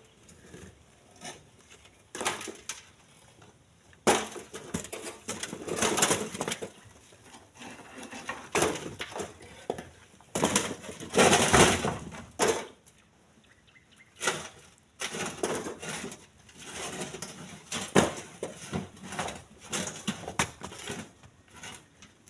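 Split stones knocking and clattering as they are handled and dropped, a string of irregular hard impacts at uneven intervals, with a longer scraping clatter about halfway through.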